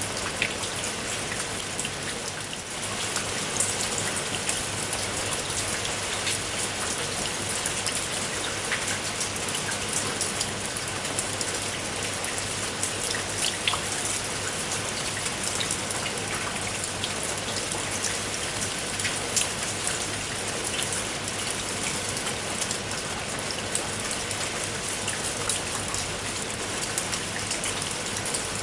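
Steady rain falling, with many separate drop hits ticking sharply through the constant patter. The level dips slightly for a moment about two and a half seconds in.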